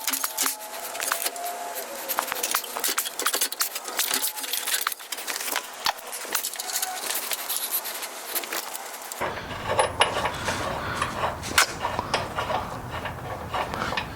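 Irregular light metallic clinks, rattles and knocks of tools and hardware being handled. About nine seconds in, a low steady hum comes in abruptly under them.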